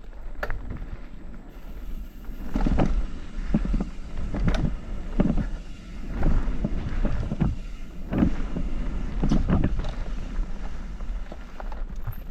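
Mountain bike riding through dirt jumps: tyres rumbling over dirt, with a run of heavy thuds from take-offs and landings and wind noise on the microphone.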